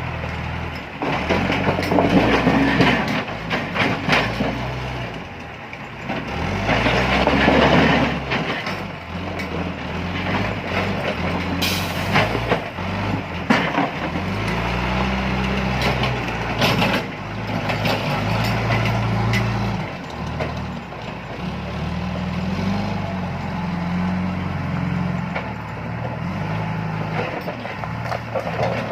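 Diesel engine of a John Deere 310E backhoe loader running and revving up and down as it works, with rushes of rocks spilling and scraping twice in the first half and a few sharp knocks about halfway through.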